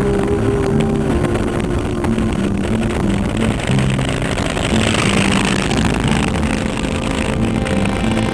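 Motorcycle engine and wind noise while riding, a steady, loud rush, with music playing underneath.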